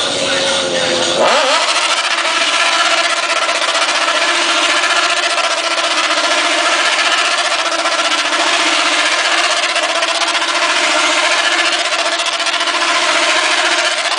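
Motorcycle engine revving up in the first second, then held at steady high revs.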